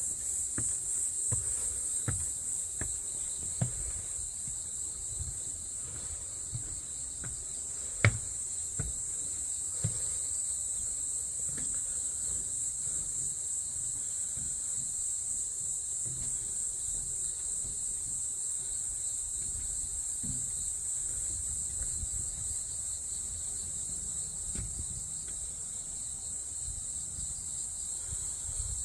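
A steady high-pitched drone of insects. Scattered soft thumps and clicks come in the first part, the loudest a single sharp click about eight seconds in.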